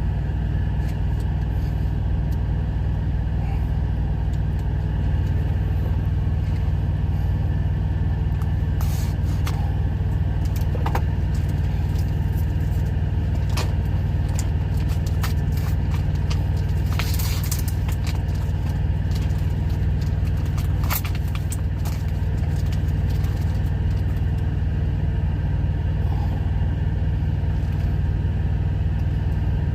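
Semi-truck diesel engine idling with a steady low rumble, with a few light clicks and scrapes from handling cookware scattered through it.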